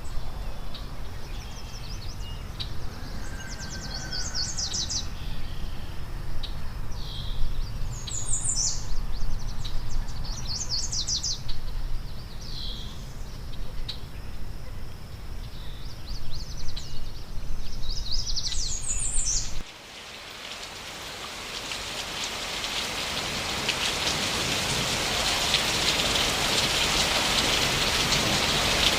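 Short bird calls repeat every few seconds over a low background rumble. About two-thirds of the way in, the sound cuts abruptly to steady rain that grows heavier toward the end.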